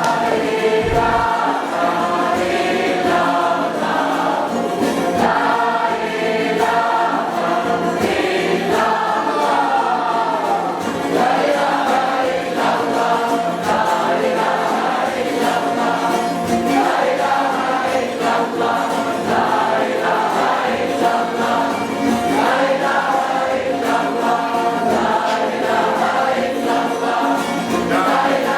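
A group of voices singing together like a choir, a steady, continuous song.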